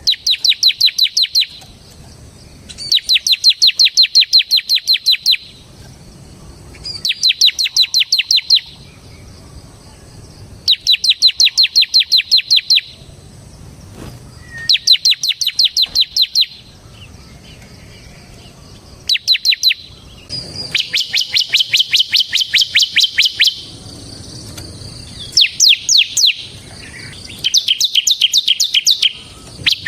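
Bar-winged prinia (ciblek semi) singing in repeated bouts. Each bout is a fast, sharp, high trill of identical notes lasting one to three seconds, with a pause of a second or two between bouts.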